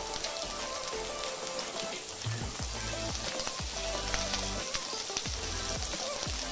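Chopped onion sizzling and crackling as it fries in hot oil in a wok, over background music.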